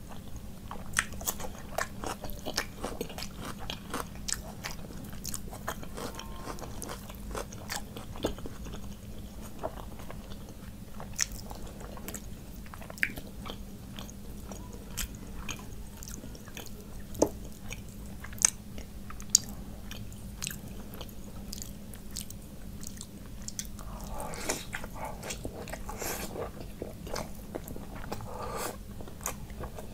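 A person chewing rice and curry with the mouth open, wet smacking with many short sharp mouth clicks; the chewing grows denser and noisier about 24 seconds in.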